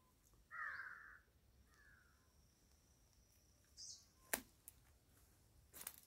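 A bird gives two short harsh caws early in the quiet, then a brief high chirp and two sharp clicks follow in the second half.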